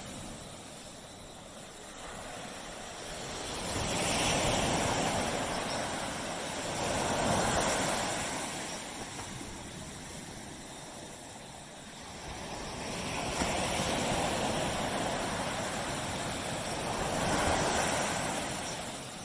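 Surf on a tropical beach: waves washing up and drawing back, the wash swelling twice, about ten seconds apart.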